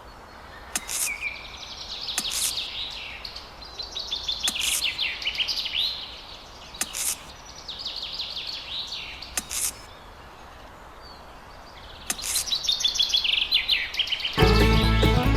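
Birds chirping in rapid, repeated trills, with sharp clicks every second or two. Music starts abruptly near the end.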